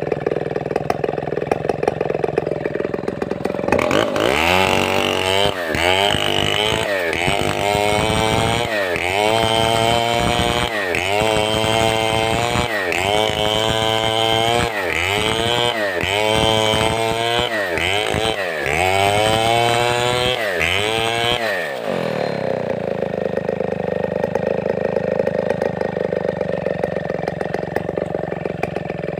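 Large two-stroke chainsaw of the Stihl 070 / New West 707 type idling, then revved up and down about once a second for around eighteen seconds, each time rising in pitch and dropping back. It then settles back to idle.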